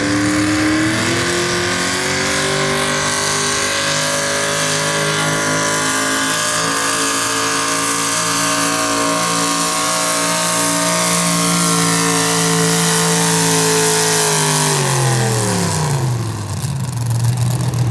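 Small-block V8 engine of a modified 4x4 pulling truck running flat out under load, its pitch held high and sagging slowly over about fifteen seconds. About fifteen seconds in the throttle comes off, and the pitch drops steeply to a low idle.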